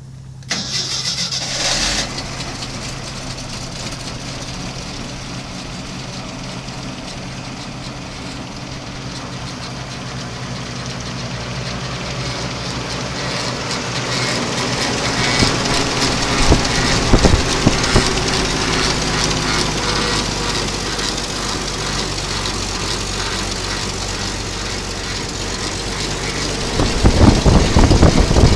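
Engine of a 1979 International Harvester 2600 truck running steadily at idle. It grows louder about halfway through and louder again near the end.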